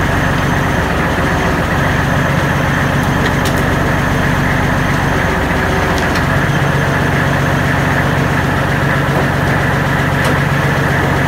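Kubota L35 tractor's diesel engine running steadily, with a few light clicks over it.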